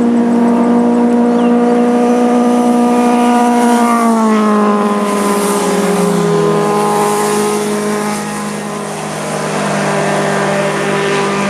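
Sport motorcycle passing at steady speed. The engine note holds steady, drops in pitch about four to six seconds in as the bike goes by, then carries on at the lower pitch as it moves away.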